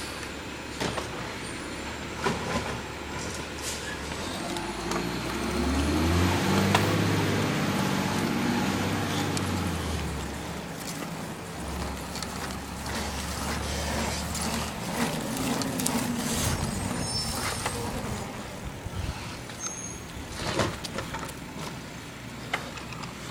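Garbage truck's engine revving up for several seconds and dropping back, then rising briefly again, among scattered clanks and knocks.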